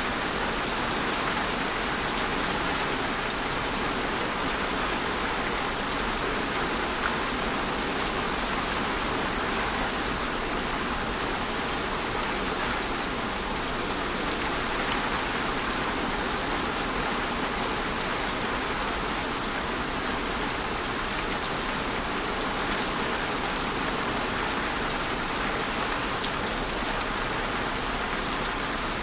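Steady rain falling, an even hiss with scattered drops tapping on a surface.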